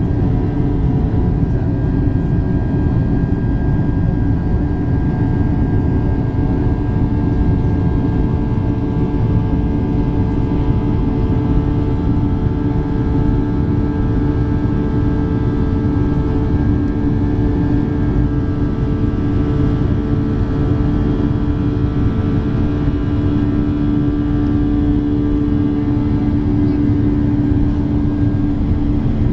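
Boeing 757 jet engines at takeoff power heard from inside the passenger cabin: a steady, loud rumble with a droning hum that shifts slightly in pitch later on.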